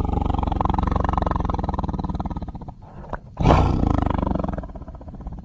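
Deep, growling monster-roar sound effects voicing Mongo, the giant gingerbread man: one long roar that fades out, a short click, then a second roar that cuts off suddenly at the end.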